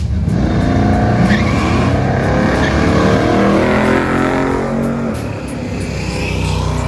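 Drag car engine at full throttle on a run down the strip, its pitch climbing at first and then falling away.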